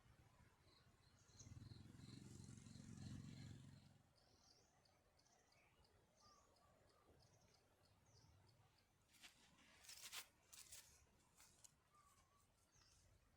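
Faint forest ambience with small birds chirping: first a quick run of short high notes, then a string of short dipping chirps. A low rumble comes a second or two in, and a few crackles and rustles about ten seconds in.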